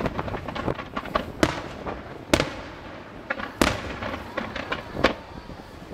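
Fireworks display: aerial shells bursting with four loud bangs roughly a second apart, and lighter crackling reports between them.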